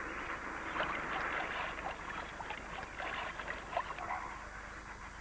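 A large flock of flamingos calling together: a dense, continuous chatter of many overlapping honks and chirps.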